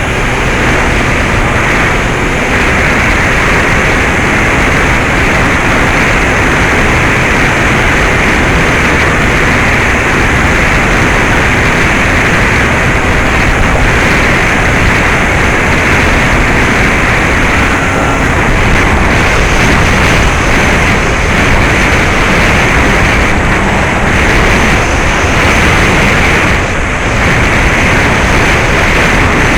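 Steady, loud rushing airflow and propeller noise on the onboard camera of a Bixler 2 FPV plane in flight, driven by a brushless outrunner motor turning a 9x6 propeller. The noise dips briefly near the end.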